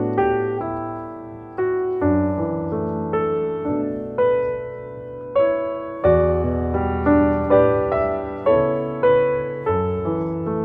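Background music: slow, gentle piano, with notes struck every half second to a second and left to ring and fade.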